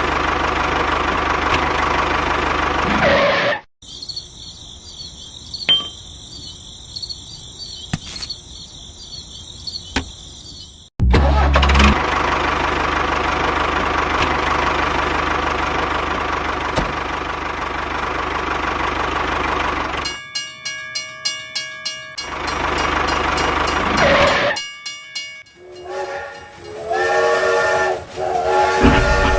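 Toy vehicle sound effects: a steady motor-like running noise, broken for several seconds by a high whistling tone. Near the end come quick rhythmic ticks and a horn-like chord.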